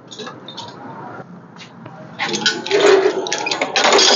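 Irregular scraping and rattling bursts from handling gear around the engine hoist and the rolling engine stand, starting about two seconds in after a quieter stretch of small knocks.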